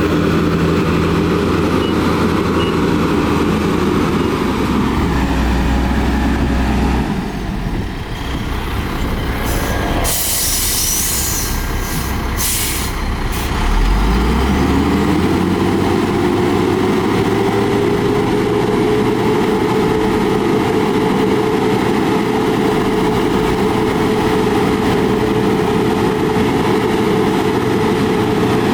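Heavy diesel construction machinery, a bulldozer and dump trucks, running steadily. About ten seconds in there are a few short bursts of air hiss. An engine then revs up over several seconds and holds at high speed.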